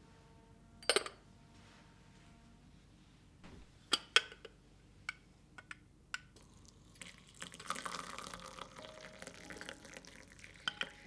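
Several sharp taps and clinks of small hard objects being handled and set down, followed by a few seconds of water running or being poured.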